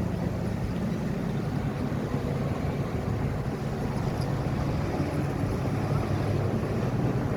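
Bulldozer's diesel engine running steadily under load, a low, even drone.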